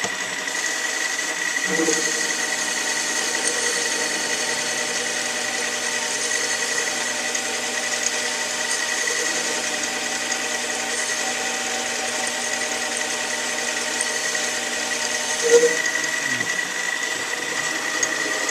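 Small hobby metal lathe running steadily, its motor giving a constant whine while the tool takes a turning cut on a small metal part. A short louder blip stands out near the end.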